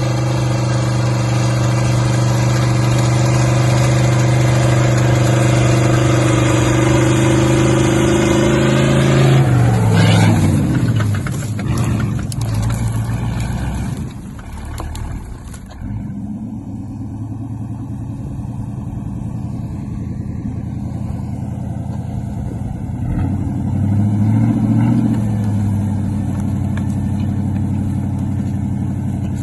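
A vehicle's engine running under steady high revs, then winding down in pitch about ten seconds in and settling to a lower, steady run, with a brief rise in revs near the end.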